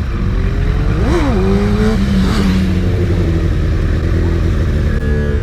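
Motorcycle engine running at idle with a steady low rumble, given one quick rev up and back down about a second in.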